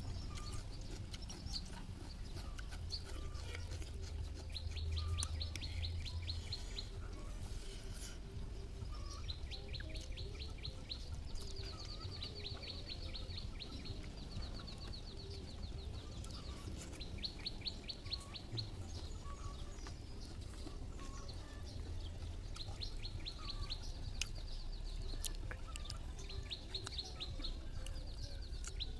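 A bird singing outdoors: fast, high trills, each a second or two long, repeated over and over, with short soft clicks of eating in between.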